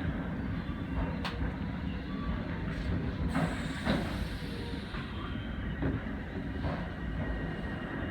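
Tobu Urban Park Line commuter train running, heard from the front of the train: a steady low rumble from the wheels and running gear, with a few sharp clicks from the wheels on the track.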